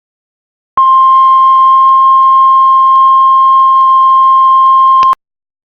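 Heart monitor flatline: one long, steady high beep held for about four seconds, starting about a second in and cutting off suddenly. The unbroken tone signals that no heartbeat is being detected.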